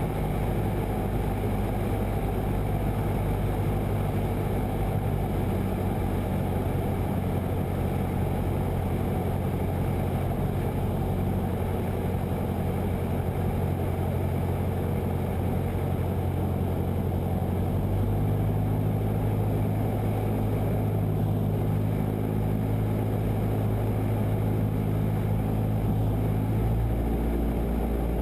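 Cessna 172's single piston engine and propeller droning steadily in the cockpit, throttled back as power is bled off in the landing pattern. The engine note shifts about 18 seconds in and again near the end as the power setting changes.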